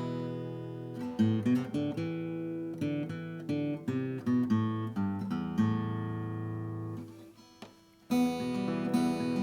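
Steel-string acoustic guitar being played, picked notes and strummed chords. About six seconds in a chord is left to ring and die away, there is a brief gap, and the playing starts again near the end.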